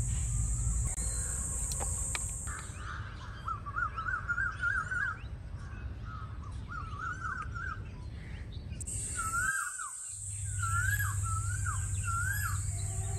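Birds calling outdoors: runs of short, quick rising-and-falling notes, then single calls repeated about once a second, over a steady background hiss. The sound cuts out briefly about two-thirds of the way through, then resumes.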